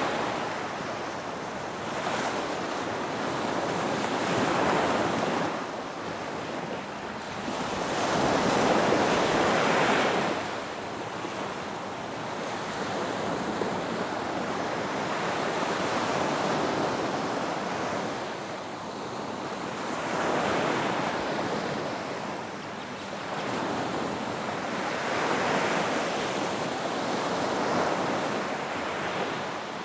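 Ocean waves breaking on a beach, the surf swelling and washing in and out again every four to five seconds.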